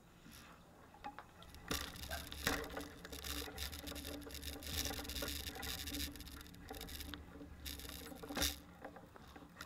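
Bicycle being ridden, heard through a camera mounted on the bike: a steady low rumble with many small rattles and clicks throughout.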